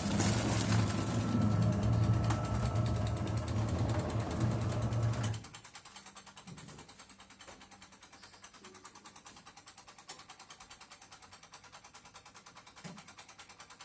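Feya-2 washing machine motor running with a steady electric hum, which cuts off abruptly about five seconds in. After that there is only a faint, fast, regular ticking from the machine.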